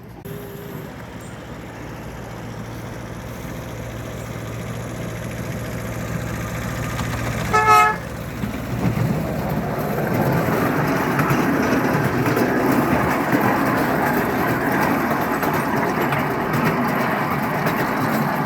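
A miniature park-railway locomotive gives one short toot of its whistle about eight seconds in, over a steady low hum. After the toot, the train's running noise grows louder.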